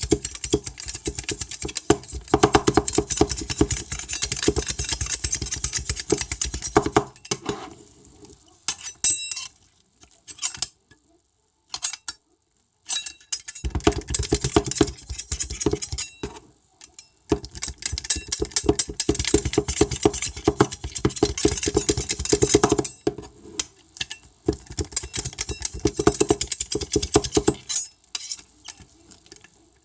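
Metal utensils stirring, scraping and clinking rapidly against metal dishes, in several long bursts separated by pauses with only a few scattered taps.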